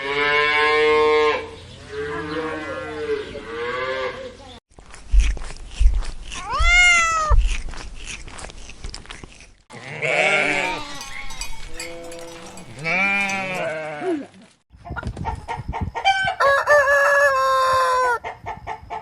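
Goats bleating in several short clips, each separated by a brief silent cut, with quavering, pitched calls throughout.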